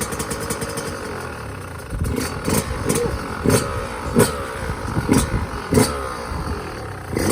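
2021 Yamaha YZ125 two-stroke engine running just after a choke-on kick start, idling at first, then blipped on the throttle in a run of short revs from about two seconds in.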